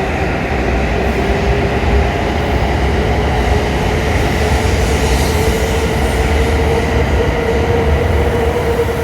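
W7 series Shinkansen train pulling out of the station under a steady rumble, with a motor whine that rises slowly in pitch as it gathers speed.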